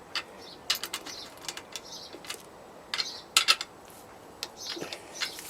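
Ratchet and socket clicking in a few short bursts of sharp ticks while tightening the handlebar clamp bolts.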